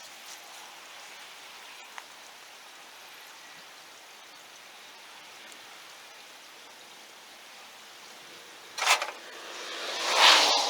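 Steady hiss of falling rain. Near the end come two louder rushes: a short one, then a longer one that swells and fades over about a second.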